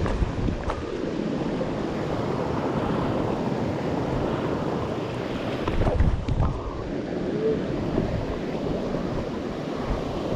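Steady rush of falling water from a waterfall, with wind buffeting the microphone, heaviest about six seconds in.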